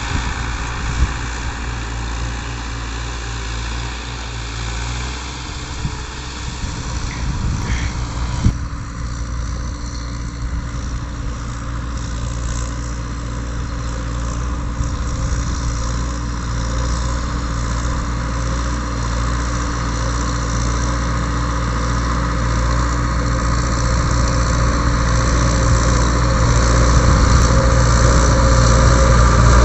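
Ford 7000 tractor's four-cylinder diesel engine running steadily while ploughing, growing louder toward the end.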